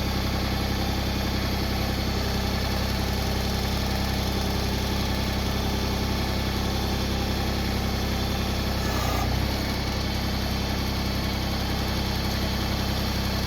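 Tractor engine running steadily at idle, with a brief change in its sound about nine seconds in.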